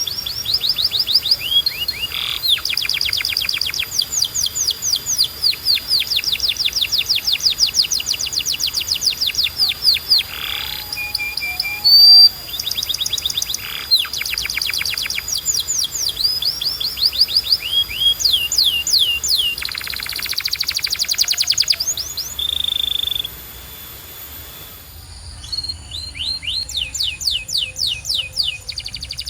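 Domestic canary singing: long runs of rapid, evenly repeated sweeping notes (rolls and trills), broken by a few short held whistled notes. The song pauses for about two seconds late on, then the trills resume.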